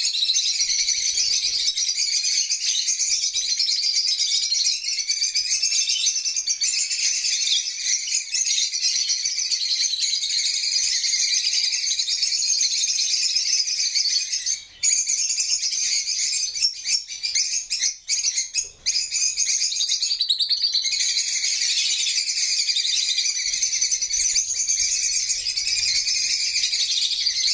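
A flock of parrots chirping and chattering in a dense, continuous, high-pitched stream, with a few brief gaps past the middle.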